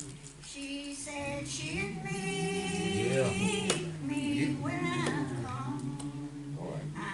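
A group of voices, women's most prominent, singing a slow gospel hymn with long held notes. A single sharp click comes about halfway through.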